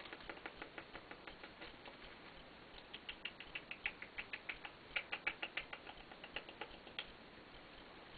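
White-bellied caique giving a rapid run of soft clicks and chirps, about five or six a second, louder and denser in the middle of the stretch.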